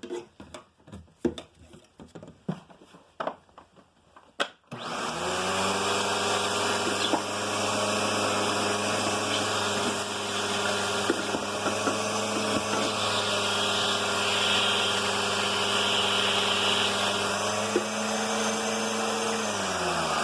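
A few knocks and clicks of handling, then a vacuum cleaner's motor switched on about five seconds in. It runs steadily while sucking out the leftover dirt from a dust cup, and winds down in pitch as it is switched off at the very end.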